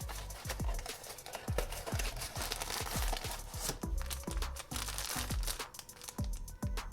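Blind-box packaging crinkling as it is opened by hand, over background music with a steady beat.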